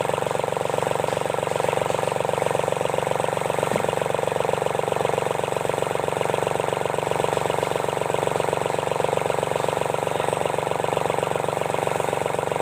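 D1462-TV diesel engine of a Sunshine L1-255 tractor running steadily at an even speed after its valve seats and piston rings were replaced.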